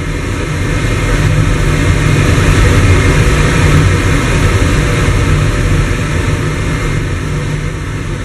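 Steam heating boiler firing: a loud, steady roar with a deep rumble underneath, swelling over the first few seconds and easing slightly toward the end.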